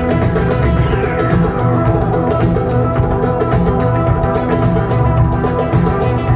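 Live psychedelic rock band playing an instrumental passage, with drum kit, bass and electric melody instruments over held notes; about a second in, a falling glide sweeps down in pitch.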